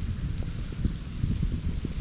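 Wind buffeting the microphone: an uneven low rumble over a faint hiss.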